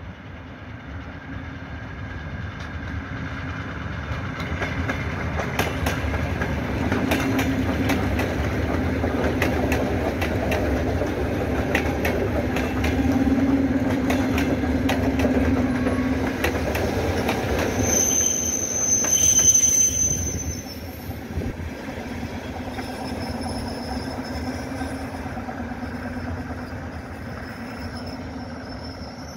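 Electric multiple-unit commuter train passing close by: a rumble that builds as it approaches, with sharp clicks of the wheels over rail joints. A brief high squeal comes about two-thirds of the way through, then the rumble drops and fades as the train moves away.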